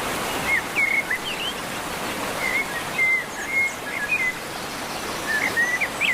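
Small songbirds chirping: short, quickly bending whistled notes in three clusters, over a steady rushing background noise.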